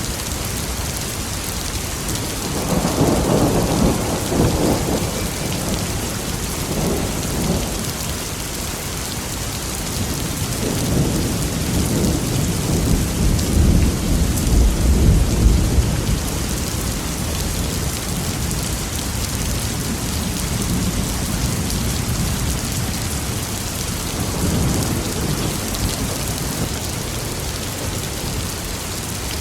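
Steady heavy rain with rolling thunder: a rumble about two seconds in, a longer, louder roll building to a peak around the middle, and a fainter rumble near the end.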